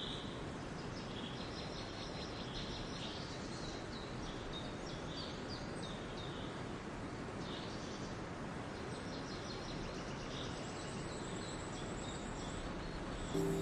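Outdoor morning ambience: many small birds chirping and calling in short, scattered notes over a steady background hiss.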